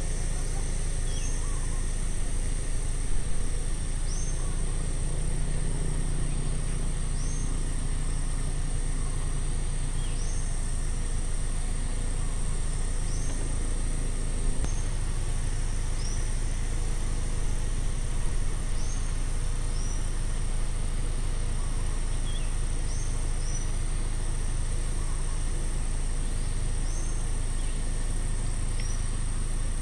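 A steady low rumble of distant road traffic under a steady high insect drone, with a bird repeating a short high chirp every second or two.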